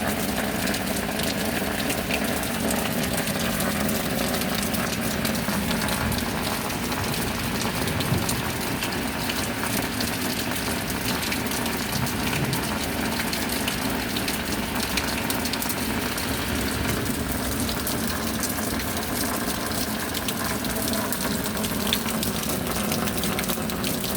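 Steady rain, a dense, even hiss of falling and running water with a faint low hum beneath it.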